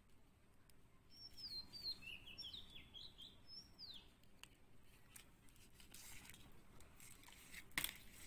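Faint bird chirps: a quick run of short, high notes sliding up and down about one to four seconds in. In the second half come a few light clicks of plastic beads being handled on nylon thread.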